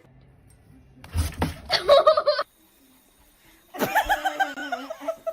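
A person laughing in two bouts, the first about a second in and the second starting near the end.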